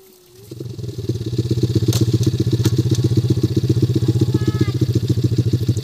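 Small single-cylinder engine of a mini trail bike running at a low, steady speed as it pulls away slowly. The engine comes in about half a second in, grows louder over the next second, then holds an even beat.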